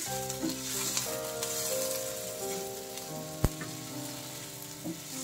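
Sliced onions and chopped tomatoes sizzling in ghee in a nonstick frying pan on a low flame, stirred with a slotted spatula. A single sharp tap of the spatula on the pan comes about three and a half seconds in, over a few steady held tones.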